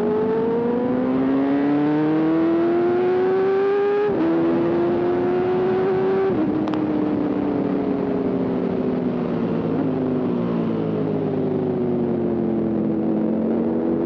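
Kawasaki ZX-4RR's high-revving inline-four engine under acceleration: the pitch climbs, drops sharply at a gear change about four seconds in and again a couple of seconds later, then sinks slowly as the throttle is rolled off, and climbs again near the end, over a steady wind rush.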